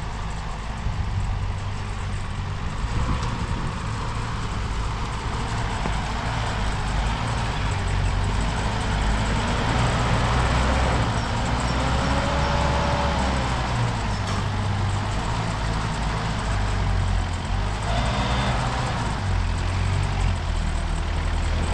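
A motor vehicle's engine running at low speed, a steady deep sound with no clear revs.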